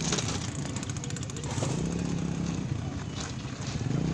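Yamaha Mio Sporty motor scooter's small single-cylinder four-stroke engine running under way, its note rising slightly about one and a half seconds in and easing off near the end.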